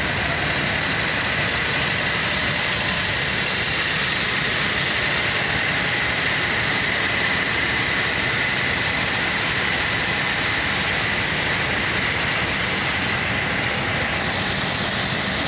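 Pakistan Railways diesel locomotive running close by as it crawls through floodwater covering the track: a steady, loud mix of engine noise and water churning around the wheels.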